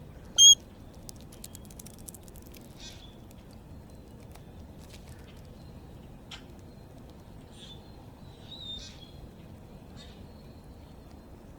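A single loud, short, high beep about half a second in, then faint, sparse chirps and ticks from small backyard birds.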